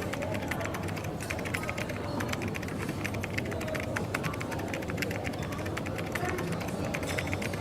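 Coffee shop ambience: a steady low hum and murmur of background chatter, with a constant run of small quick clicks and light clatter over it.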